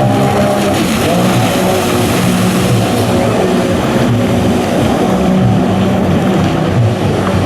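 Jet ski engines running at speed, their pitch rising and falling as the throttle is worked through the slalom.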